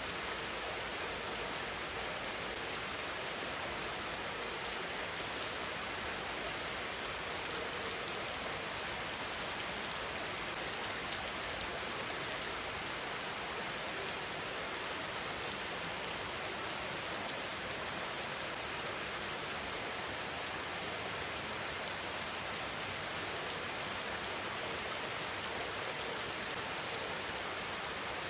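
Steady rain falling on surfaces: an even hiss with a few scattered louder drops.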